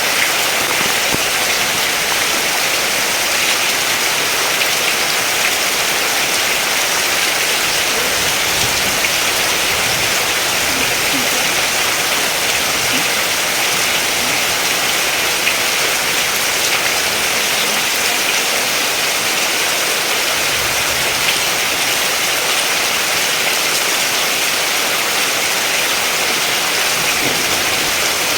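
Steady heavy rain, a dense, even hiss of drops falling on surfaces.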